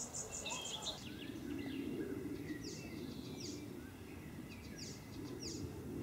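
Outdoor ambience: small birds chirping, short falling high notes repeated every second or so, over a steady low hum that swells and fades twice.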